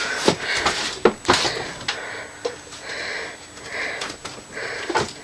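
A person's short, noisy breaths and sniffs in a small room, repeating every second or so, with a few sharp knocks in between.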